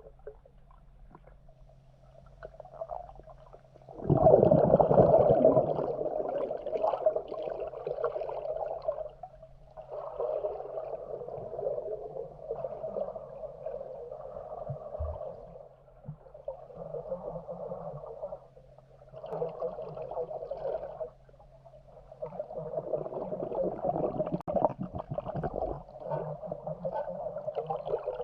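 Muffled underwater swooshing and gurgling of water moving around a GoPro in a swimming pool, coming in uneven surges. The loudest surge starts suddenly about four seconds in.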